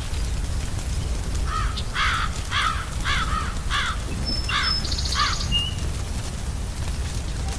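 A crow cawing, a series of about seven harsh caws roughly two a second, starting about a second and a half in. A small bird gives a brief high chirp near the end, over a steady low rumble.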